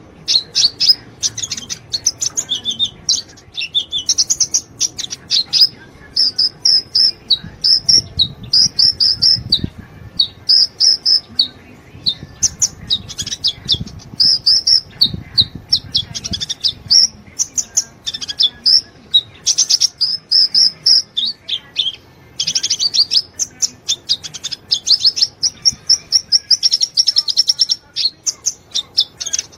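A sunbird singing vigorously: fast strings of high, sharp chirps and quick trills, repeated with only brief pauses.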